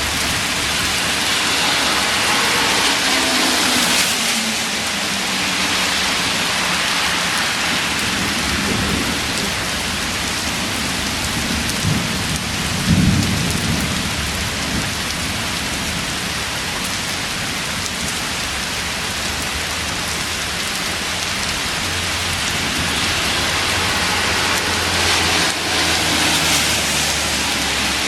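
Heavy thunderstorm rain pouring steadily, with a rumble of thunder about halfway through.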